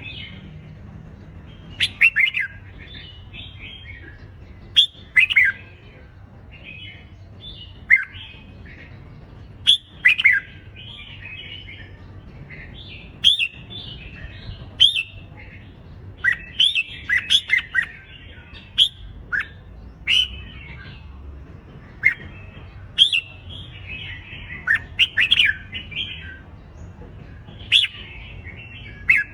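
Red-whiskered bulbuls in competitive song: short, sharp whistled phrases and calls, one after another every second or two, over a faint low hum.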